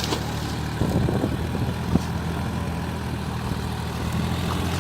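Tractor engine running steadily at a low, even speed, with one sharp knock about two seconds in.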